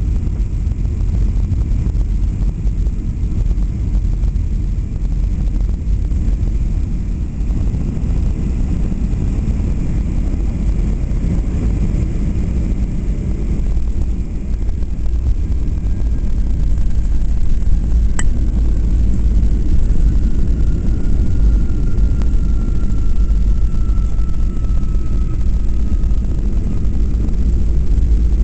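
Steady low rumble of a Boeing 737-800's CFM56 jet engines and airflow, heard inside the cabin during landing. It gets a little louder a bit past halfway, with a single sharp click and then a faint, slowly falling whine.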